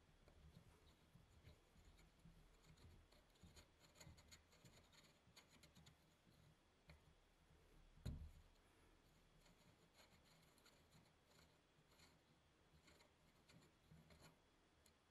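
Near silence with faint scratching, rubbing and light ticks of small hand work, and one soft thump about eight seconds in.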